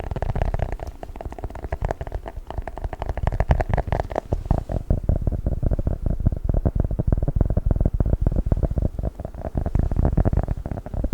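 Close-miked handling of an ASMR 'chocolate book' trigger object: a dense, fast run of small clicks and scratchy tapping with a heavy low end. The brighter edge of the sound drops away about five seconds in.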